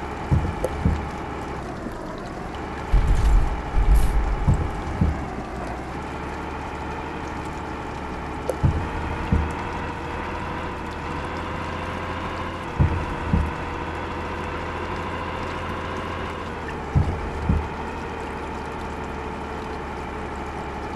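Truck engine running under way, a steady hum whose pitch steps up or down a few times, with short low thumps every few seconds.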